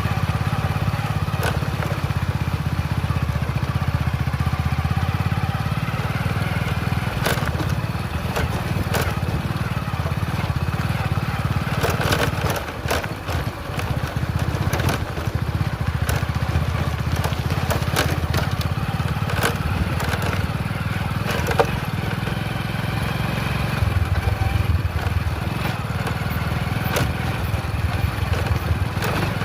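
Motorcycle engine running steadily, its note dipping briefly about twelve seconds in, with scattered sharp clicks over it.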